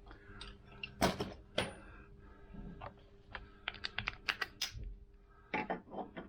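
Irregular light clicks and knocks of small metal parts and cable being handled by hand, loudest about a second in, with a quick run of clicks in the middle. A faint steady hum runs underneath.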